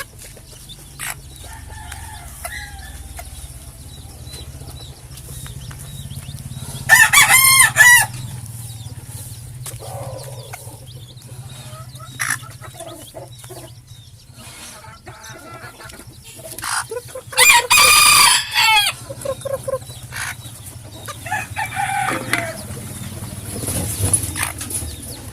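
Bantam rooster crowing twice, about ten seconds apart, each crow loud and a second or so long, with softer clucking from the flock in between.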